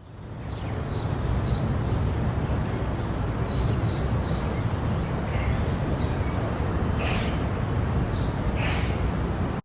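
Outdoor ambience: a steady low rumble with birds chirping now and then. It fades in over about a second and cuts off abruptly at the end.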